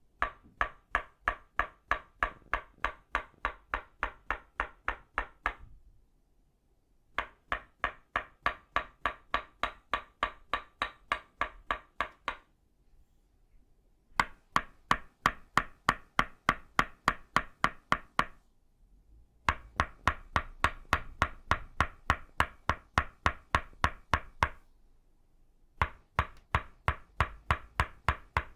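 Tok sen tapping: an itauba-wood mallet striking a wooden stake at a steady rhythm of about three strikes a second, each a sharp woody knock with a short ring. The tapping comes in runs of five or six seconds with pauses of about a second and a half between them.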